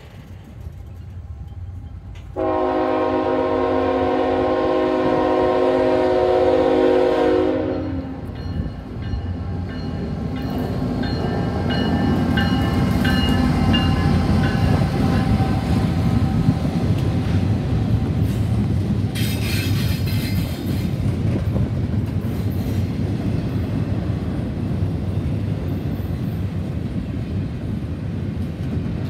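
CSX freight locomotive sounding its horn in one long steady chord of about five seconds, then the train passing close by with a heavy, steady rumble and rail clatter from the wheels. There is a brief high-pitched squeal about two-thirds of the way through.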